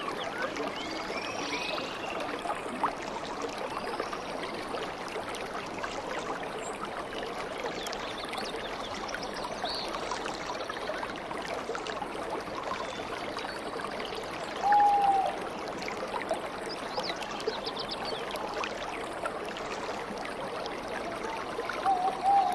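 Stream water flowing steadily, with a few bird calls over it: high chirps in the first couple of seconds, then a short, louder whistled call about two-thirds of the way through and another near the end.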